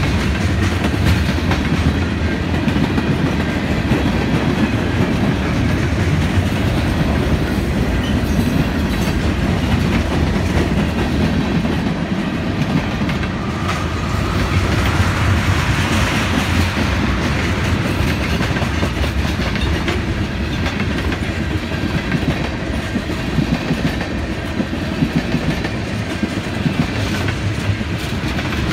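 Freight train cars, covered hoppers and tank cars, rolling past at close range: a steady rumble with the wheels clacking over the rail joints and crossing. A brighter hiss rises briefly about halfway through.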